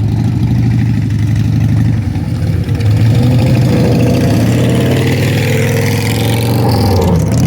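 A car engine running loudly close by, a steady low rumble throughout with some rise in revs around the middle.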